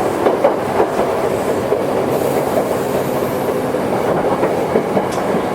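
Toyohashi Railway 1800 series electric train (a former Tokyu car) running along the line: a steady rumble of wheels on rail with scattered clicks from the track.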